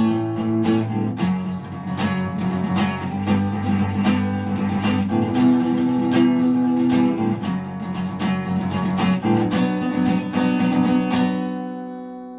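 Acoustic guitar strummed through an instrumental outro; near the end the last chord is left to ring and fades away.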